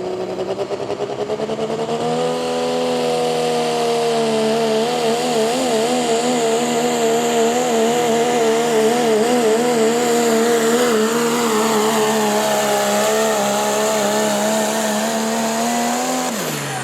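A pulling vehicle's engine running at high revs under full load. It winds up over the first couple of seconds, holds steady with its pitch wavering for most of the run, then drops off sharply near the end as the throttle is let off.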